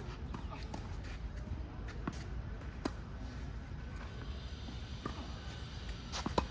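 Tennis ball being hit with rackets and bouncing on the court: a few sharp knocks spread out, with two in quick succession near the end, over a steady low background rumble.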